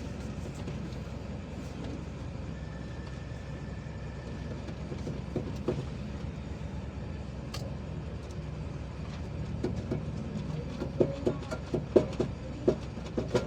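A steady low mechanical rumble, with a run of sharp knocks in the last few seconds.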